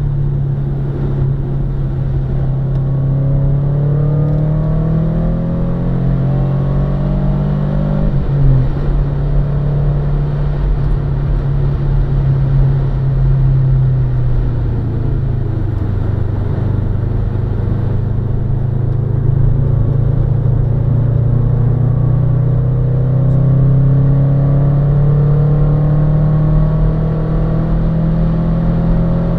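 Subaru Impreza's flat-four boxer engine pulling hard round a race circuit, its revs climbing. There is a sharp break about eight seconds in, typical of a gear change. The pitch then eases off and climbs steadily again through the second half.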